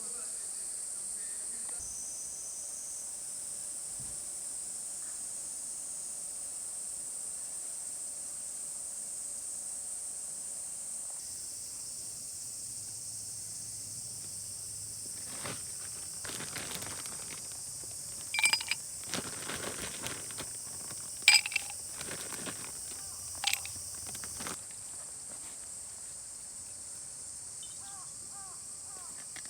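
Steady high-pitched buzzing of summer insects, with a cluster of sharp clicks and knocks in the middle stretch, three of them standing out.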